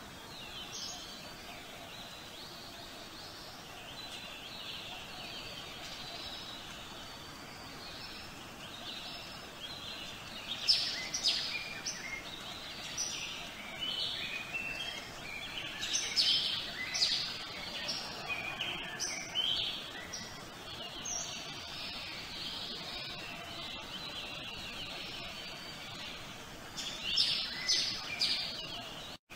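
Birds chirping over a steady outdoor background hiss, in clusters of quick high chirps that come thickest around the middle and again near the end.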